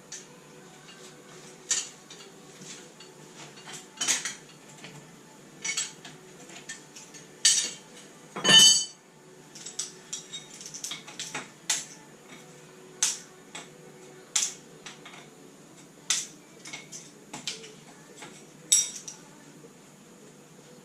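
Metal hand tools and parts clinking and knocking at irregular intervals, with the loudest knock about eight and a half seconds in.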